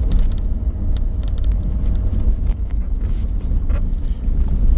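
Pickup truck driving slowly on a bumpy dirt road, heard from inside the cab: a steady low rumble with scattered rattles and knocks from the rough surface.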